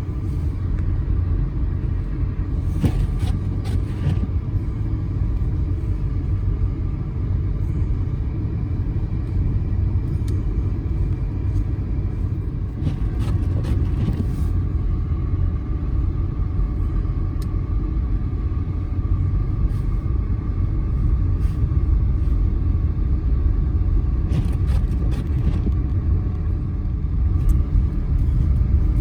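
Steady low rumble of a car driving, engine and tyres heard from inside the cabin, with a few faint clicks.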